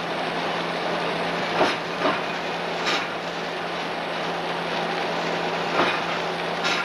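Railway train rolling along the track, a steady running noise with a few sharp irregular knocks from the wheels and couplings.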